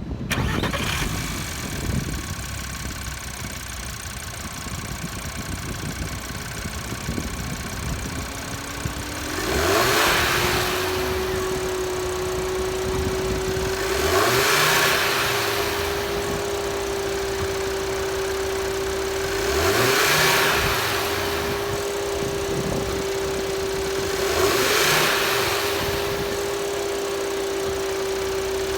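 Audi TT RS turbocharged 2.5-litre five-cylinder engine, heard from the open engine bay, starting up and settling into idle. From about nine seconds a steady whine joins the idle, and about every five seconds the engine is revved up briefly and falls back, four times.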